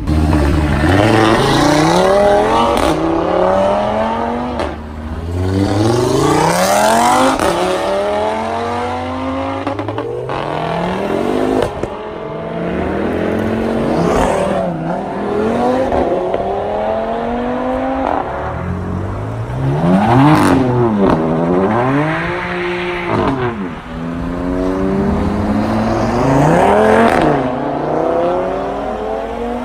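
Tuned Audi RS3s' turbocharged five-cylinder engines with custom exhausts, loud, revving hard as the cars accelerate one after another. Each engine's pitch climbs, then drops sharply at a gear change before climbing again, over and over.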